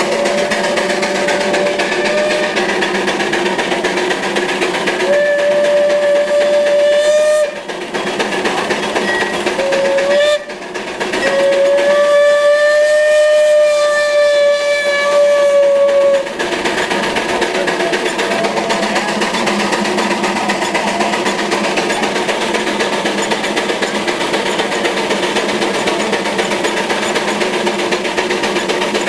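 Steam whistle blowing four steady blasts: two of a couple of seconds each, a short toot, then a long one of about five seconds. Continuous machinery noise runs underneath and carries on alone after the last blast.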